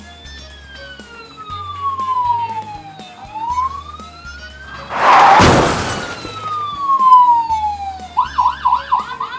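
Police siren wailing, slowly rising and falling about every three seconds, over background music with a bass line. About five seconds in, a loud burst of noise cuts across it, and near the end the siren switches to a fast yelp.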